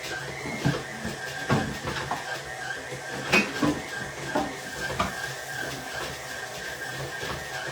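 Electric stand mixer running steadily as it kneads dough, a constant motor hum with a high whine, with a few sharp knocks and clatters about a second, a second and a half, three and a half and five seconds in.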